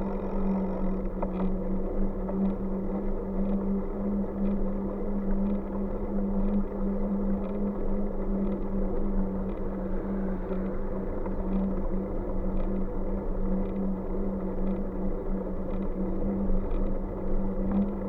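A bike on the move: a steady drone at an even pitch over road and wind rumble, with a faint tick about once a second.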